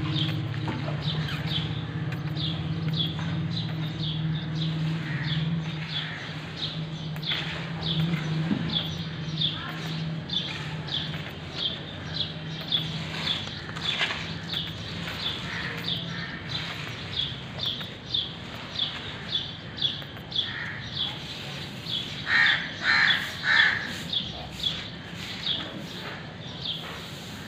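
Birds calling: a rapid run of short high chirps, two or three a second, with three louder harsh calls about 22 seconds in.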